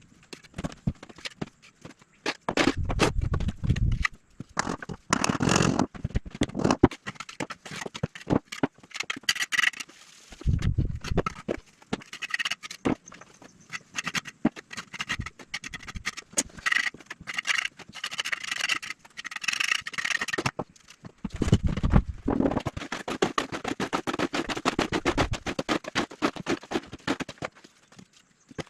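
Hand construction work: repeated scraping and knocking in several bursts, with short pauses between them.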